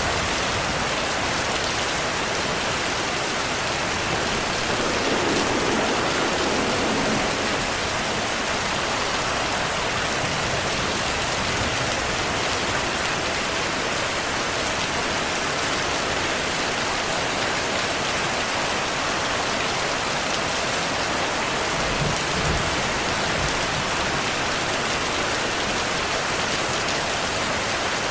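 Steady rain falling, with low rolls of thunder about five seconds in and again a little past twenty seconds.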